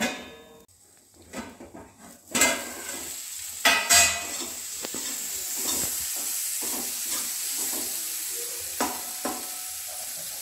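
A few loud metal clanks against an aluminium kadhai, then spiced radish and tomato sizzling steadily in the pan with the small scraping ticks of stirring.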